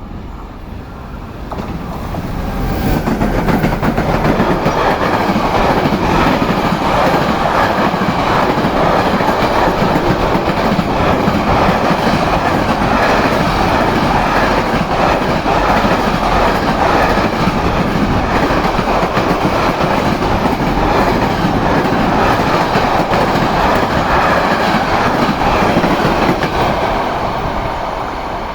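Freight train hauled by two locomotives passing close by. The sound builds over the first few seconds, then holds as a long steady run of wagon wheels clattering over the rails, easing off near the end.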